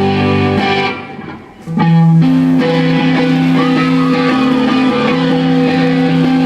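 Electric guitars playing live at full volume. A chord rings out and fades, then about two seconds in a loud held chord starts and rings on, with a few bending notes gliding above it.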